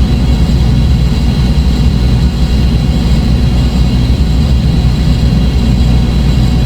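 Dark ambient drone music: a loud, steady low synthesizer drone with faint sustained high tones above it, no beat or melody.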